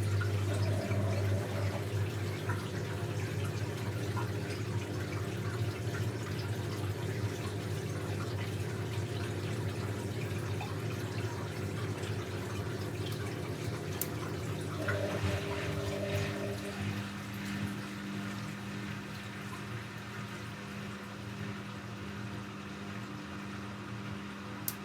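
Techwood WB 91042I washing machine at work, with water running and trickling over a steady low electric hum. The pitch of the hum shifts about fifteen seconds in.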